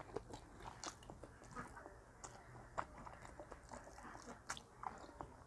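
Faint close-up chewing of dhido with chicken gravy, picked up by a clip-on microphone: scattered small wet mouth clicks and smacks.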